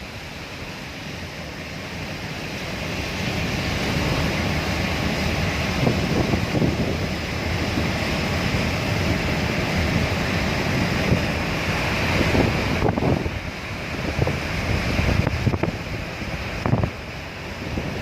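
Steady hiss of rain with wind gusting across the microphone in irregular low rumbles.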